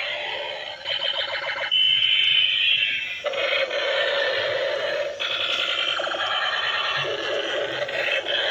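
A string of electronic toy sound effects, beeping and warbling tones that switch to a new sound every second or two.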